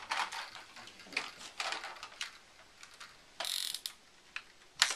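Plastic toy parts clicking and rattling as they are handled, with a short scrape about three and a half seconds in and a sharp click near the end.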